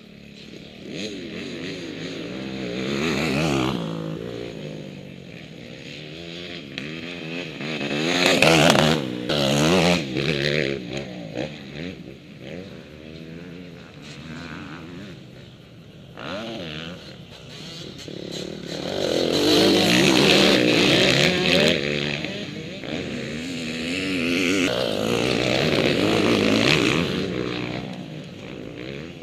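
Motocross bikes' engines revving hard, pitch climbing and falling with throttle and gear changes, swelling loud several times as the bikes come close and fading between.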